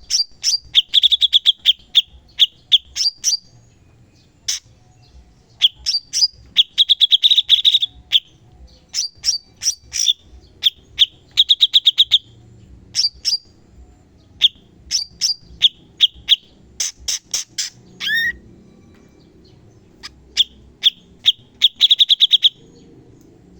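Cucak cungkok song: bursts of rapid, sharp chattering trills and clipped high notes, repeated phrase after phrase with short pauses between. About 18 seconds in comes a single downward-sliding call.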